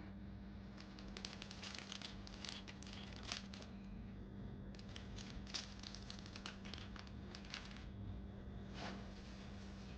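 Faint crinkling and rustling, a run of small irregular crackles, over a steady low hum.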